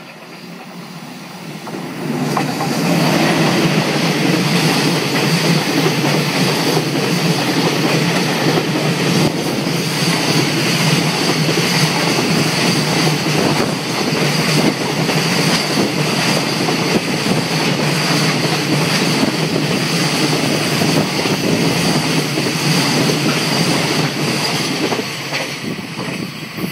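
JR Freight container train hauled by an EF210 electric locomotive passing close by. The noise swells over the first two seconds, then the wagons roll past loud and steady with repeated clickety-clack of wheels over rail joints, easing off near the end.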